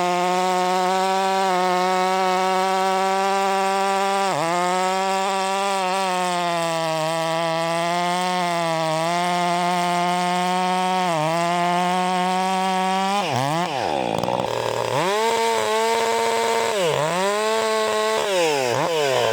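Stihl MS 400 C two-stroke chainsaw running at full throttle through a cut, its pitch held high with brief sags under load. About two-thirds of the way through, the revs drop and climb back several times as the throttle is let off and squeezed again.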